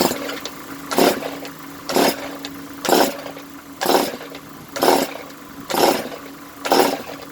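Recoil starter of a Stihl TS 420/430 two-stroke cut-off saw being pulled again and again, a rasping pull about once a second, eight times. The engine does not catch: the owner blames a dirty carburetor and sticky old fuel.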